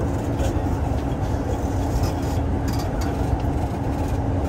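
Kintetsu 2800 series electric train running between stations, heard from inside the car: a steady rumble of wheels on rail with a constant hum, and a few faint clicks.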